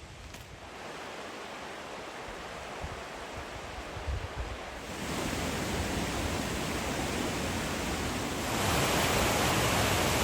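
Waterfall on the River Dee rushing steadily, in spate after heavy rain. It gets louder in two steps, about halfway through and again near the end.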